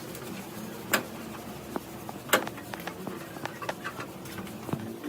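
Scattered sharp clicks and knocks, the two loudest about a second and about two and a half seconds in, over a faint low cooing.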